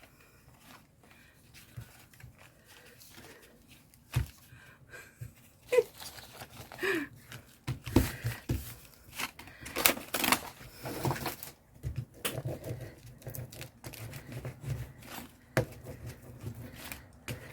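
Paper and card being handled at a craft table: irregular rustling, crinkling and tearing with scattered light taps and knocks, busier in the second half.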